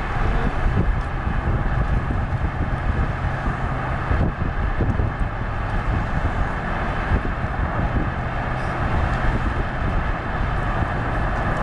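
Steady drone of a vehicle on the move, heard from inside the cabin: engine and tyre noise with an even rush of road and wind noise.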